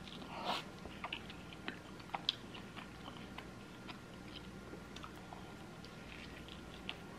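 Close-up mouth sounds of a person chewing pizza: soft wet smacks and small clicks. There is a short louder mouth noise about half a second in, and another bite is taken near the end.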